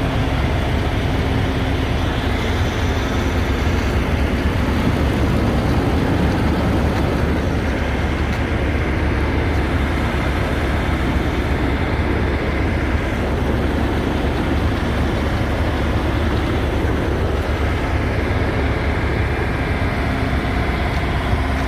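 Steady low rumble with an even hiss, heard from inside a truck cab.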